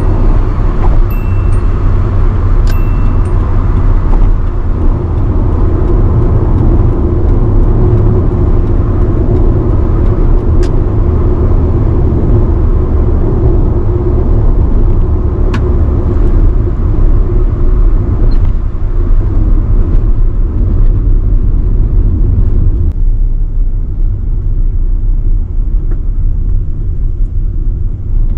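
1985 Nissan Sunny B12 running at highway speed, a loud steady low rumble of engine and road noise. In the first few seconds a short electronic warning chime sounds twice, about a second and a half apart, typical of the over-speed chime old Japanese cars give above 100 km/h. Some five seconds before the end the higher part of the noise drops away.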